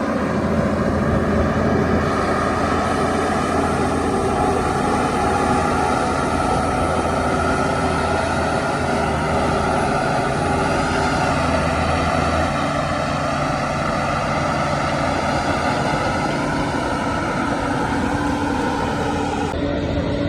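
Diesel engine of a Shantui DH17 crawler bulldozer running steadily, its pitch shifting slightly now and then. The sound changes abruptly near the end.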